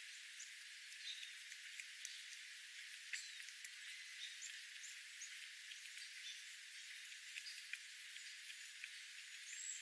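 Faint wild birds: a few short chirps and many light scattered ticks over a steady hiss.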